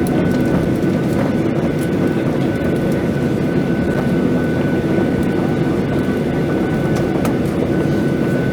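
Cabin noise of a Boeing 737-800 airliner: the CFM56 jet engines and airflow make a steady rushing drone, with a thin steady high whine over it.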